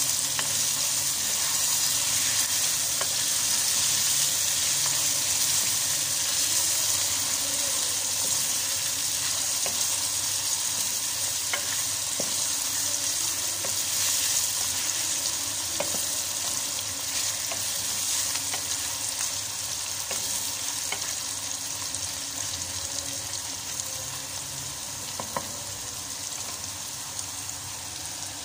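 Sliced bitter gourd frying in hot oil in a non-stick wok: a steady high sizzle with small pops, stirred now and then with a wooden spatula. The sizzle grows gradually quieter as the gourd's moisture cooks off.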